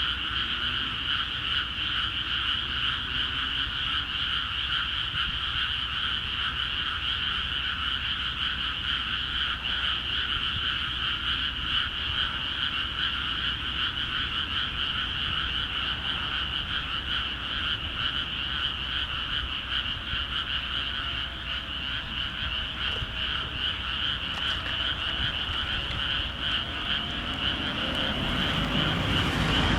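A dense chorus of many frogs calling without pause in flooded rice paddies, a continuous rapid croaking in two high bands. A low rumble builds near the end.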